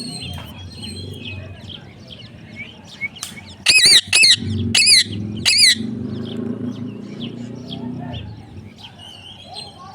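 Parrot giving four loud, shrill screeches about half a second apart, each wavering up and down in pitch, with softer chirps scattered around them.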